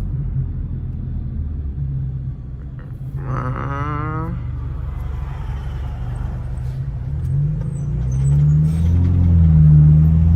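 BMW 428i's turbocharged four-cylinder engine with an aFE intake, heard from inside the car: a low steady drone while cruising, then the engine note rises and grows louder as the car accelerates about eight seconds in.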